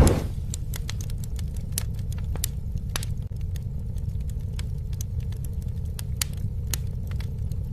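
A wood campfire burning, with a steady low rumble and irregular sharp crackles and pops from the burning wood. A brief louder whoosh comes right at the start.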